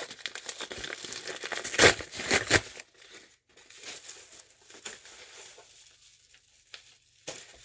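A mail package being torn open by hand, its packaging crinkling and tearing, busiest and loudest in the first three seconds, then fainter scattered rustling.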